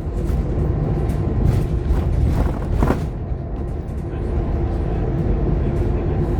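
Interior sound of a Scania K230UB OmniLink single-decker bus under way: its five-cylinder diesel engine running as a steady low drone. A short, louder burst of noise comes about two and a half seconds in.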